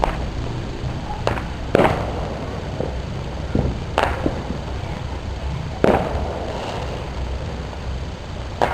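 Fireworks going off: a series of sharp bangs, about five loud ones a second or two apart with a few fainter ones between, over a steady low background rumble.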